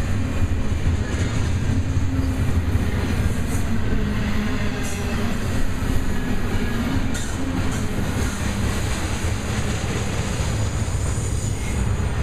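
Double-stack intermodal well cars of a freight train rolling past on steel rails: a steady, heavy rumble of wheels on track, with a couple of short clanks.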